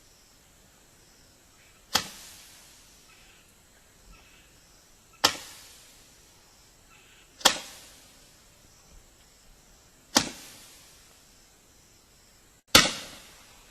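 SFX Cosmic Tails Roman candle firing comet shots: five sharp pops a couple of seconds apart, each followed by a hiss that fades over about a second.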